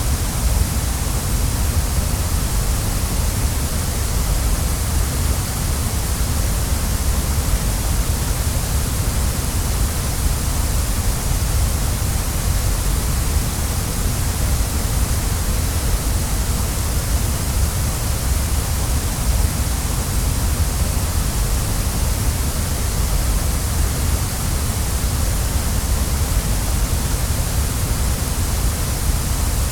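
Waterfall: falling water pouring steadily, a constant rushing with a deep rumble underneath and a bright hiss on top.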